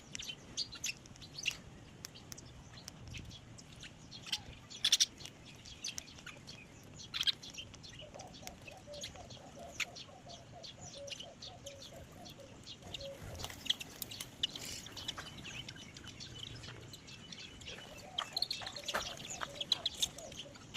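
Birds chirping: many short, sharp high chirps scattered throughout. From about eight to thirteen seconds in, and again near the end, a lower run of quick repeated notes.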